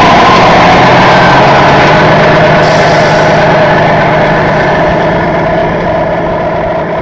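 A steady truck-like engine drone at idle, with a low hum and a couple of steady tones over a noisy rumble, slowly fading toward the end.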